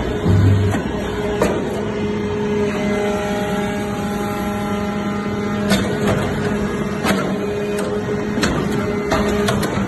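Hydraulic metal-chip baler running: a steady hum from its hydraulic power unit, with irregular sharp metallic clicks and knocks and a low thump about half a second in.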